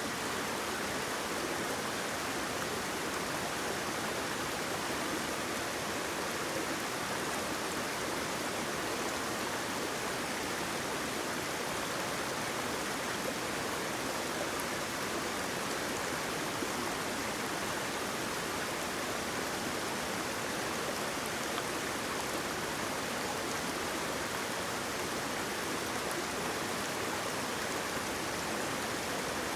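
Waterfall: a steady, unbroken rush of water, strongest in the middle range with little deep rumble.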